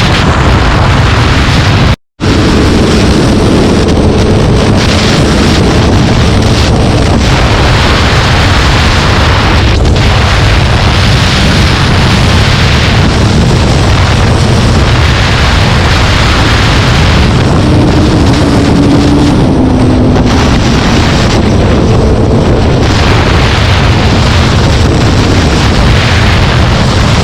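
Loud, constant wind buffeting on the microphone of a moving vehicle, with engine and road noise underneath. The sound cuts out completely for a moment about two seconds in.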